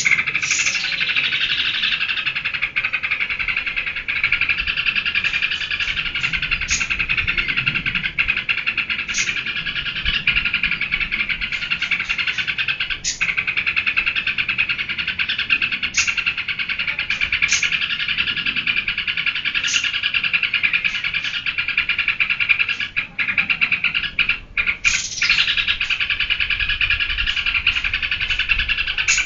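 Yellow-vented bulbul (trucukan) singing in excited, unbroken song: a dense, steady stream of chattering notes with short, sharp high notes scattered throughout.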